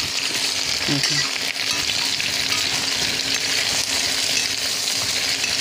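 Raw mango slices sizzling in hot mustard oil in an iron kadhai, stirred with a metal ladle: a steady frying hiss.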